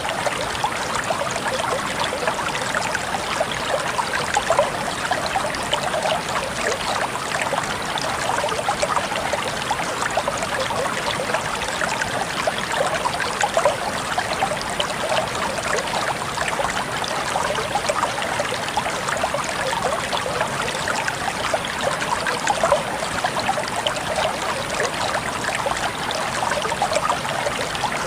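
Flowing water in a stream, a steady babbling and trickling with many small splashes.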